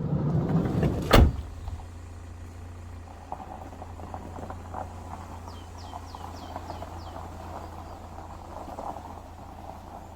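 A vehicle's sliding door rolls and slams shut about a second in. A car engine then runs with a steady low hum, and a bird gives a short run of six quick chirps near the middle.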